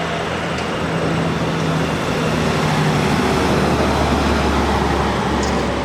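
A truck driving past on the road: a steady rush of engine and tyre noise that builds to its loudest about three to four seconds in, then eases off.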